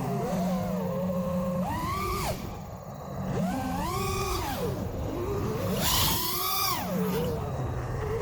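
FPV racing quadcopter's brushless motors and propellers whining, the pitch rising and falling in sweeps as the throttle is punched and eased, about four times, with a rush of air around six seconds in.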